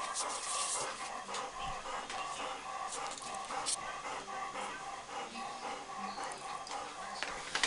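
Dogs panting, with small clicks and rustles around them.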